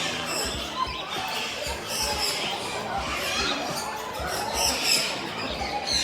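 Many small aviary birds chirping and chattering together in short, repeated high calls, with irregular low thumps underneath.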